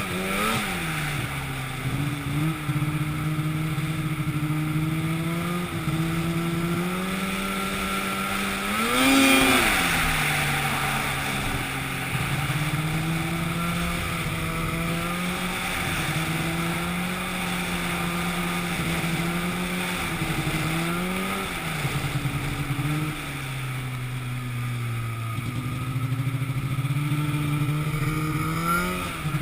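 An engine running steadily, its pitch sagging and rising again every few seconds as under changing load, with one sharp rise about nine seconds in.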